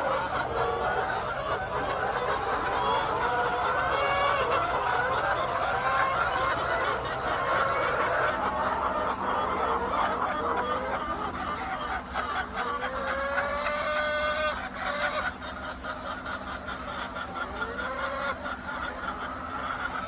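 A flock of laying hens calling and clucking over one another, with many overlapping rising and falling calls. A steady low hum runs underneath.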